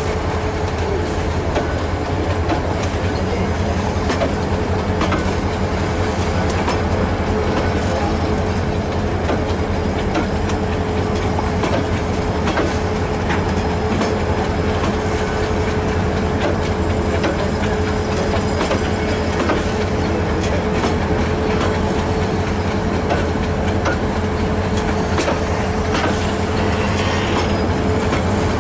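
Passenger train coaches rolling past close by: a steady rumble of wheels on rail with scattered clicks, over a steady pitched hum.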